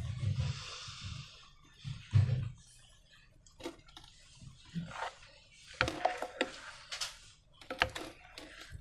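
Slime being handled by hand with rubber balloons: irregular sticky clicks, squelches and crackles, with a couple of soft thumps in the first seconds and a busier run of clicks near the end.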